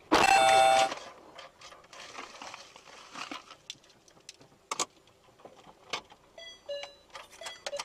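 A loud car horn blast lasting just under a second, followed by scattered sharp clicks and knocks, with a few short beeping tones near the end.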